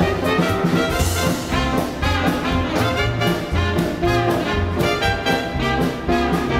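Swing dance band music with a brass section playing over a steady bass beat.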